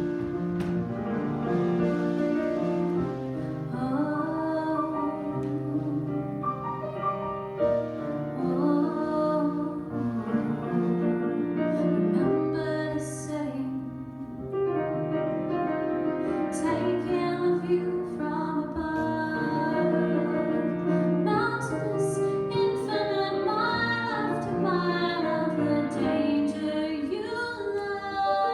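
A woman singing a music-theatre song with piano accompaniment, her long held notes wavering with vibrato.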